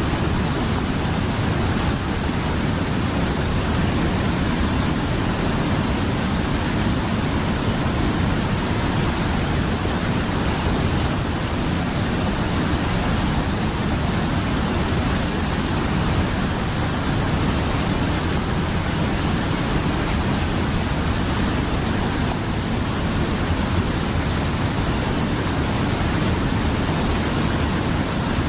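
Mountain river flowing: a steady, dense rush of water with no break.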